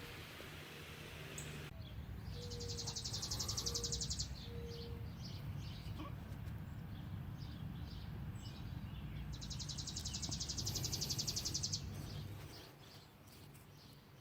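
An insect's rapid pulsed buzzing call, heard twice, each call lasting about two seconds and growing louder before stopping, over a steady low rumble.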